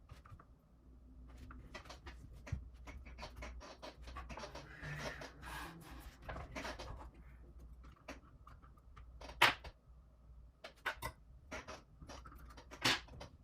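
Small clicks, taps and rustling of hands handling small parts and wiring on a model helicopter, with two sharper clicks in the second half.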